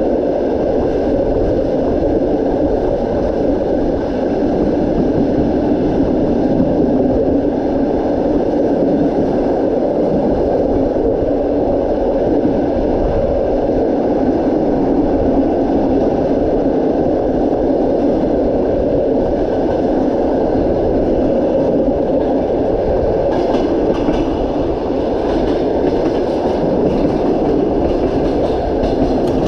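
A passenger train running steadily along the track, heard from on board: a continuous rumble of the wheels on the rails, with the clatter of the wheels more noticeable in the last few seconds.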